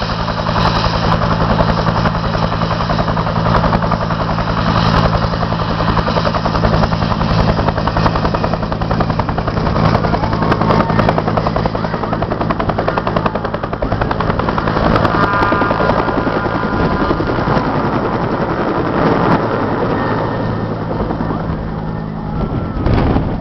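Helicopter running close by: the rapid chop of its rotor blades over a steady engine drone, easing off slightly near the end, with a brief louder rush just at the close.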